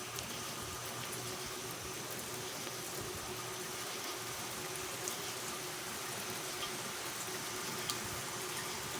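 Steady rain falling, an even hiss with scattered drops ticking close by, and a faint steady hum underneath.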